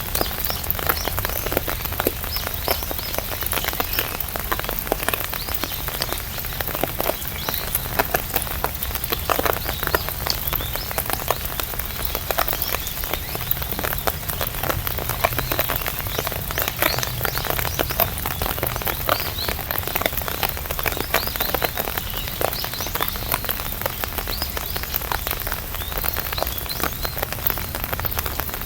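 Rain pattering steadily on an umbrella, dense irregular drop impacts over a constant hiss.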